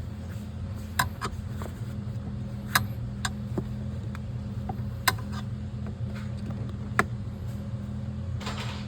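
About five sharp metallic clicks and knocks, spread out over a steady low hum, as the steering bushes of a Lexus CT200h are handled during a check for steering free play.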